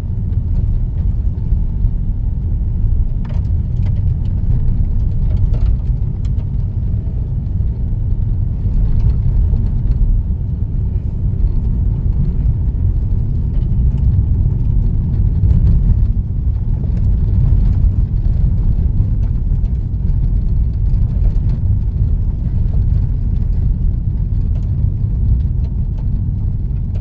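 Inside a moving car's cabin: a steady low rumble of tyre and engine noise while driving, with a few faint ticks and rattles.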